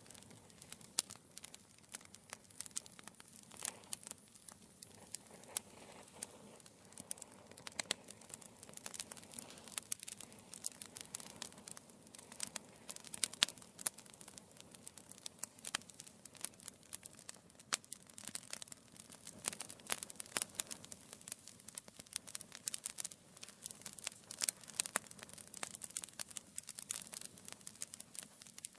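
Wood fire burning in a fireplace, logs crackling and popping with many small irregular snaps over a faint hiss of flame.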